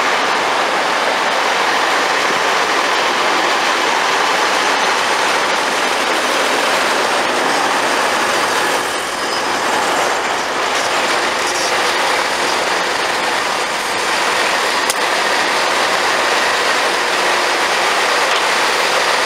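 Passenger train running along the station platform past the microphone: a steady rush of wheel and rail noise, with a single sharp click about fifteen seconds in.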